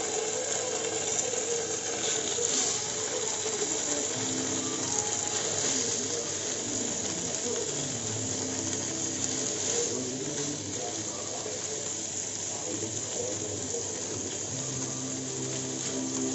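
Green-marinated chicken kebabs sizzling in melted butter in a hot nonstick pan as the skewers are laid in one after another. A steady frying hiss.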